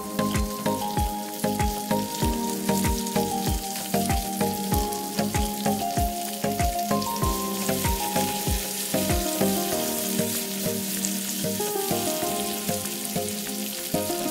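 Bell peppers sizzling as they fry in hot oil in a frying pan. Background music with a steady beat plays over it.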